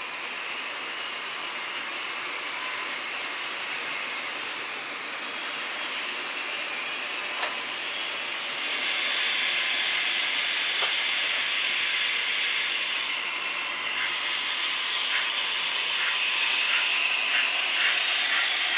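H0-scale model trains running on the layout: a steady whirring rattle of small wheels and motors on the track that grows louder about halfway through, with a row of evenly spaced clicks near the end as wheels pass over rail joints.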